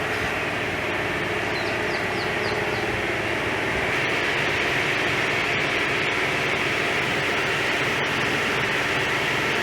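Steady hiss of a high-pressure water jet spraying during a truck wash.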